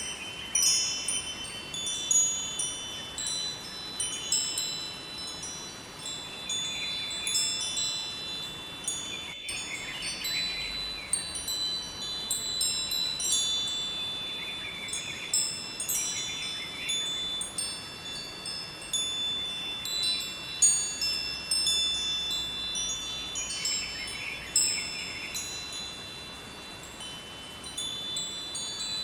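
Wind chimes ringing: high metal notes struck at irregular moments, overlapping and dying away, with a faint steady hiss underneath.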